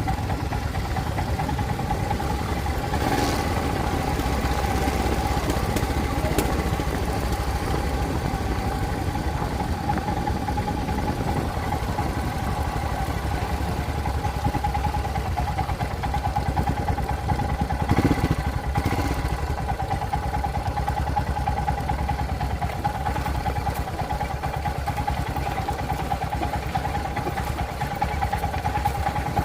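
Motorcycle engine running steadily while riding, with two brief clunks: one a few seconds in and one about two thirds of the way through.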